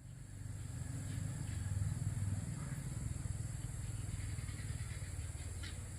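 An engine running steadily, with a low pulsing rumble, over a constant high-pitched hiss.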